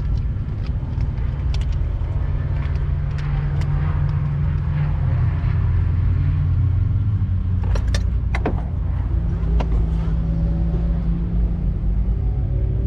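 Car engine running with a steady low hum that shifts slightly in pitch about halfway through, with scattered sharp clicks and rattles, several of them together around eight seconds in.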